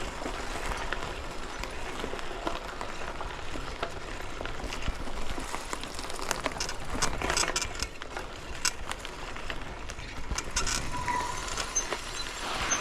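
Mountain bike ridden along a woodland dirt trail: steady rolling and wind noise with frequent rattles and clicks from the bike over bumps.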